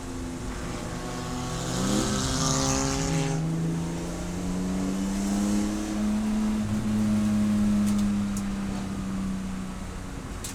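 Race car engine running at speed, its pitch bending briefly about two seconds in, then holding a steady note.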